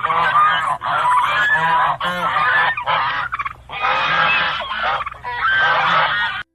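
A flock of birds calling loudly, many overlapping calls in clusters with brief gaps, cut off suddenly near the end.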